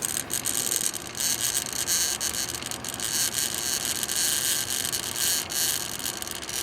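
Steady airy hiss of breath drawn in through an incentive spirometer's mouthpiece and tube, one long continuous inhalation.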